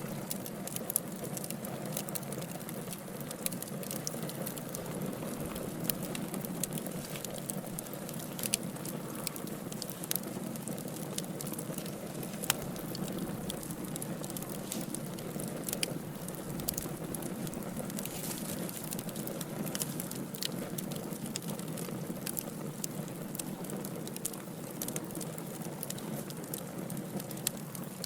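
Wood logs burning in a fire, crackling with frequent irregular sharp pops over a steady low rustle.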